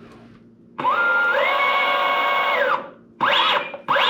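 Electric motor of an RC plane being throttled up on the bench: a whine that climbs in pitch in steps, holds for about a second, then winds down, followed by two short throttle blips that rise and fall.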